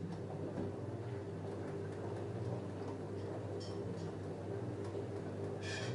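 LG F10A8HDS5 front-loading washing machine running mid-cycle with a steady low mechanical hum, which comes on sharply just before. Two brief clicks are heard, the second near the end.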